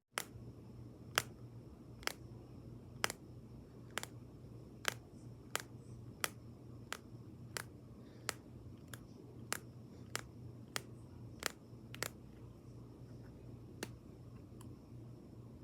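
A series of sharp, even taps, about one a second at first and gradually quickening, over a steady low hum.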